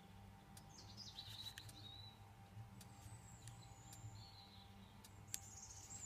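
Faint bird chirps, several short calls gliding down in pitch, over the steady low hum of running refrigeration condensing units, with a few faint clicks.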